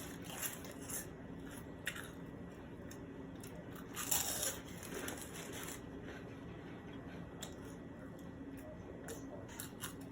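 Close-miked eating of a crunchy snack like pork rinds: a few faint crackling bites and chews, with a louder crunch about four seconds in.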